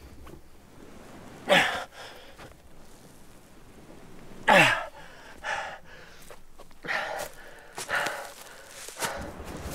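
A man grunting and breathing hard with the strain of dragging a heavy load: a string of forced breaths, each falling in pitch, the loudest about one and a half and four and a half seconds in, then weaker ones through the rest.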